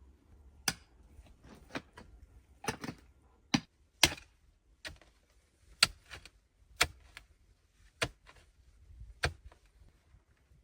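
A series of sharp knocks and clicks of hard objects striking, about one a second at irregular spacing.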